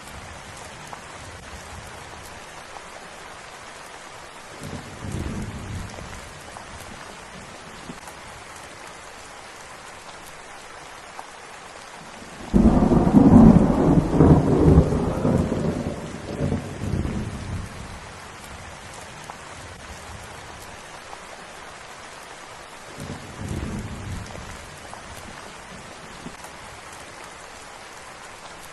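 Steady rain with thunder. A low rumble comes about five seconds in, then a loud thunderclap breaks suddenly about twelve seconds in and rolls for about five seconds, and a fainter rumble follows near the end.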